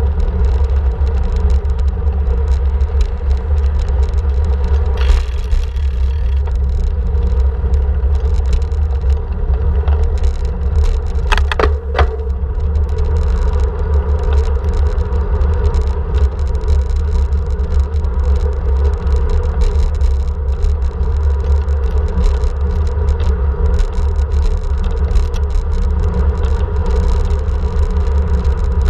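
Steady loud rumble of a moving bike ride: road and wind noise on the camera's microphone, with a couple of brief sharp clatters, one about five seconds in and one near the middle.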